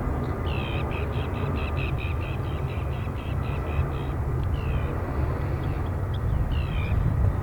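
Strong wind rumbling on the microphone, with a bird calling over it: a quick run of short, high, falling chirps about half a second in, then a few scattered calls.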